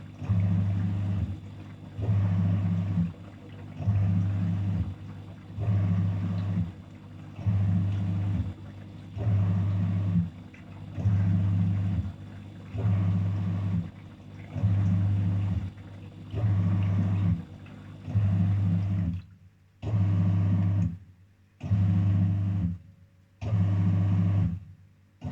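Daewoo DWF-806 WPS washing machine running its wash cycle: the motor hums in short, regular bursts about every two seconds as it turns the drum in spells. Near the end the pauses between bursts go quiet.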